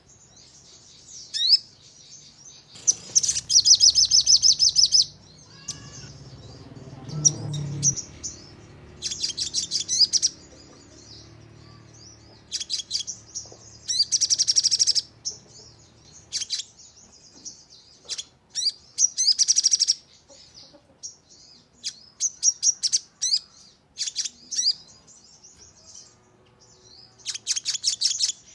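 Sogon songbird singing: bursts of fast, rapid-fire repeated notes ('nembak') lasting a second or two each, coming every few seconds, with short sharp chirps in between.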